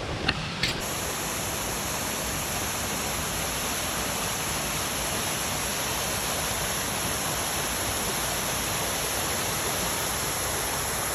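Steady rush of falling water from a waterfall, an even roar with no breaks, starting just under a second in after two short clicks.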